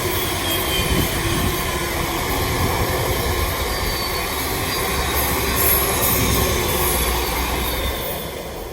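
Class 700 electric multiple unit passing at speed: a steady rumble of wheels on rail with a faint wheel squeal, fading away near the end.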